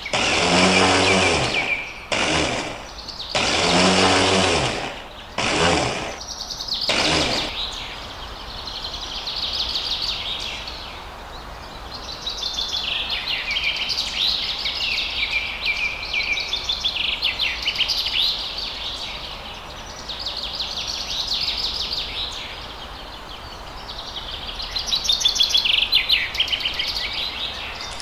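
Small motor of a miniature toy blender running in four short bursts over the first seven seconds or so. Birds chirp and twitter steadily for the rest.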